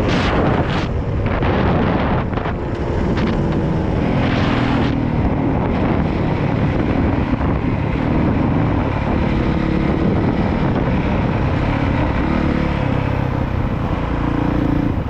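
Honda CRF450R's single-cylinder four-stroke engine running while the bike is ridden, its pitch rising and falling with the throttle. Bursts of rushing noise come through over the first five seconds.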